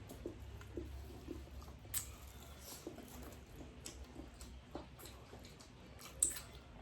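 Faint eating sounds: chewing and small mouth clicks and smacks, scattered and irregular, with a slightly louder click about 2 s in and another near the end, over a low steady hum.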